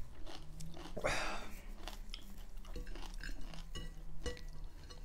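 Close-miked chewing and crunching of food, irregular crunchy bites and mouth clicks, with a louder noisy burst about a second in.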